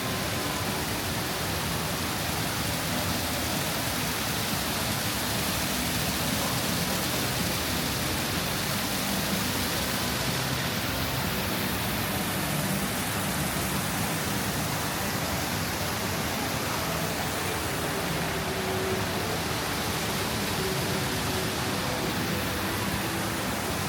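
Steady rushing hiss of falling water from garden waterfalls, even and unbroken throughout.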